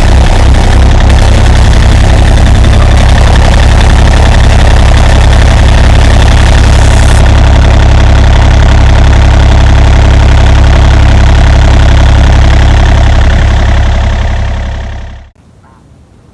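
Takeuchi TB025 mini-excavator's diesel engine running steadily, loud and low-pitched, fading out about fourteen seconds in.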